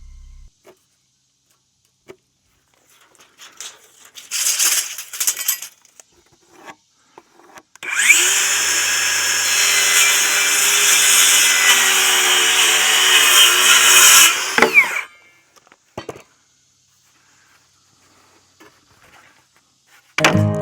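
Power saw cutting wood: the motor spins up about eight seconds in, runs loud and steady for about six seconds through the cut, then winds down. A shorter burst of noise comes a few seconds before it.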